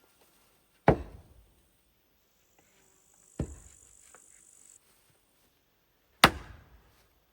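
An axe chopping wood: three sharp strikes about two and a half to three seconds apart, each with a short ringing tail. The middle strike is weaker than the other two.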